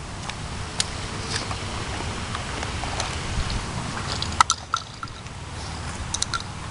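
Steady crackling noise with scattered sharp clicks and one louder crack about four and a half seconds in.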